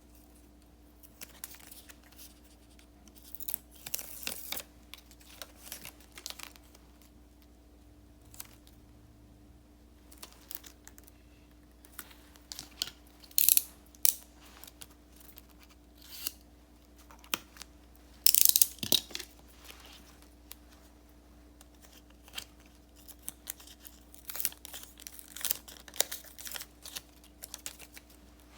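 Stickers and paper being handled for diary decorating: scattered rustling and peeling, with a few short, louder rips, the loudest about 13 and 18 seconds in.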